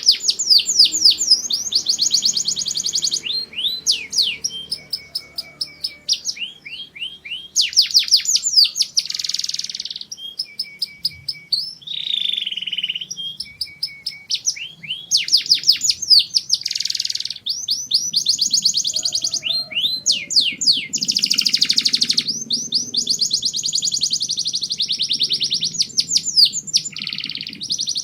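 Domestic canary singing a long continuous song: fast trills of rapidly repeated notes, rolling phrases and short rasping bursts, with hardly a pause.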